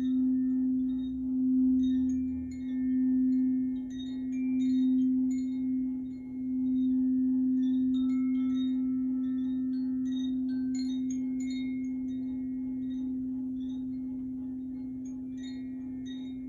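Crystal singing bowl sounding one steady low note that swells and ebbs in slow waves for the first six seconds or so, then holds and slowly fades. Short, faint high ringing notes sound above it throughout.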